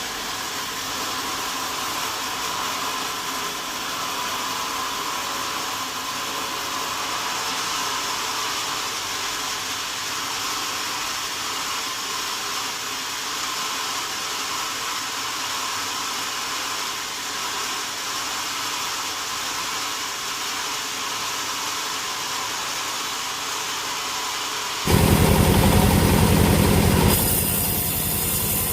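Sawmill saw cutting wadang wood: a steady hissing run with a faint high whine, which changes abruptly about 25 seconds in to a much louder, heavier noise.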